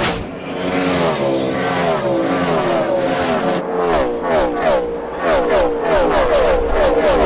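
NASCAR Cup Series race cars' V8 engines at high revs, their pitch sweeping down again and again. The sweeps come faster and closer together in the second half.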